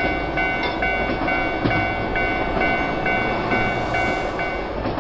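Railroad crossing warning bell ringing in two alternating tones, switching about three times a second, over the steady rumble of a passing train.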